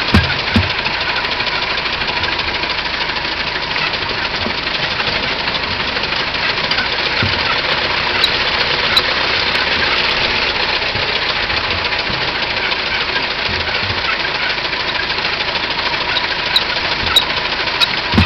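1909 Ford Model T's four-cylinder side-valve engine running steadily, with a few short low thumps here and there.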